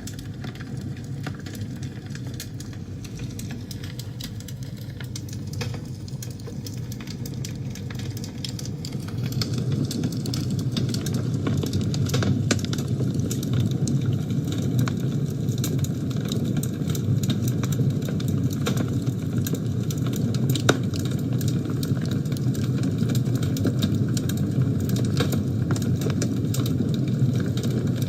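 Wood fire burning in a fireplace: a steady low rumble of flames with frequent small crackles and pops, growing louder about ten seconds in.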